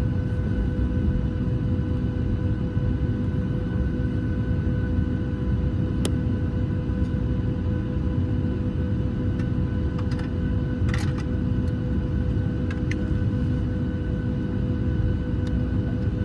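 Boeing 737 cabin noise: a steady low rumble with several constant whining tones from the aircraft's air systems or engines, and a few faint clicks and knocks about six, eleven and thirteen seconds in.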